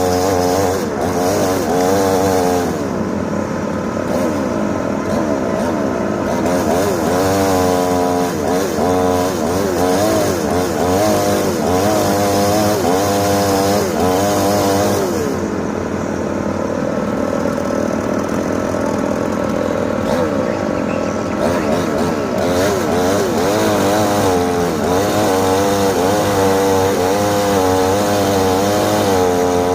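Excavator's diesel engine working under hydraulic load, its pitch repeatedly rising and falling as the boom and bucket move.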